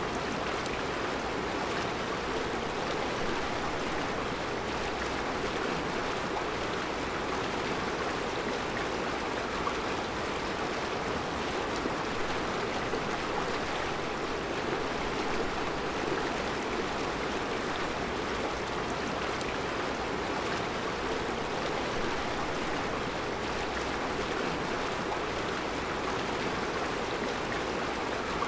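Mountain river flowing over round rocks in a rocky riverbed: a steady, even rush of water.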